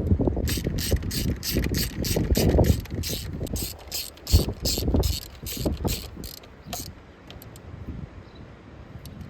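Socket ratchet wrench clicking in a steady run, about three clicks a second, as a loose spark plug is tightened back down; the clicking stops about two-thirds of the way through.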